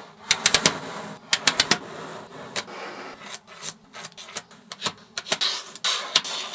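Small magnetic balls clicking sharply as they snap onto one another, with a rubbing scrape as they are rolled and pushed into place between the clicks. Quick runs of three or four clicks come in the first two seconds, then the clicks spread out.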